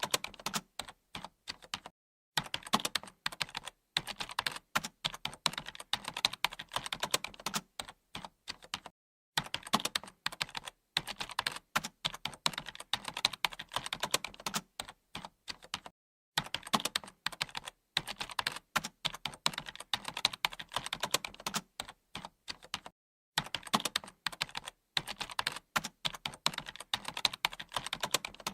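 Continuous typing on a computer keyboard: rapid clicking keystrokes in runs of several seconds, broken by short pauses.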